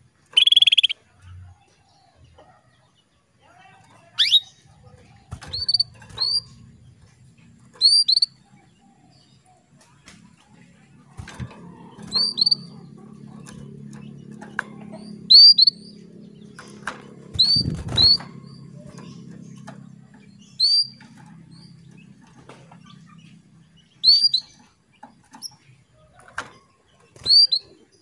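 Female canary calling: short, high chirps that sweep downward, often two in quick succession, repeated every second or two. This is the female's call to the male, used to bring males into breeding condition and song. A faint low hum runs underneath through the middle of the stretch.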